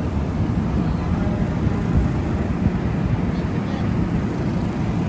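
Wind buffeting the microphone, a loud, uneven low rumble over city street noise with faint voices of passers-by.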